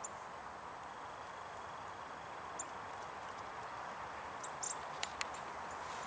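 Faint steady background hiss with a few brief, very high-pitched bird chirps scattered through it, and a couple of sharp clicks about five seconds in.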